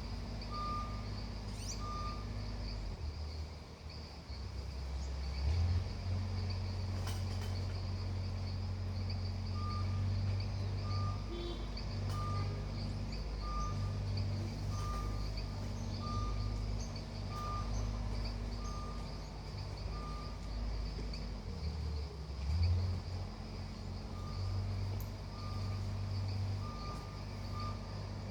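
A heavy vehicle's engine runs with a low drone that drops and shifts twice, while its reversing alarm beeps at a steady pace, a little over once a second, in several runs. A steady high hiss sits underneath.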